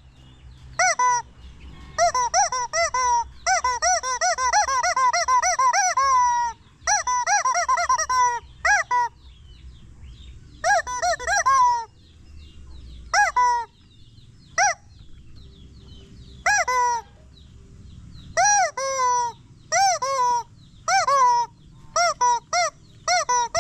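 Rubber chicken squeezed again and again, each squeeze giving a loud honking squeal that rises and falls in pitch. It comes in quick runs of several squeals a second, with a long fast burst a few seconds in, then single squeals and short groups with gaps between them.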